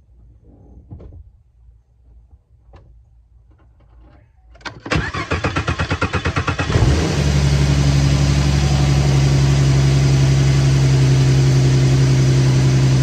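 The 2014 Ford Mustang's 3.7-litre V6 being started on a freshly fitted battery: a few faint clicks, then the starter cranks briskly for about two seconds before the engine catches, flares and settles into a steady idle. The quick start shows the new battery has cured the no-start.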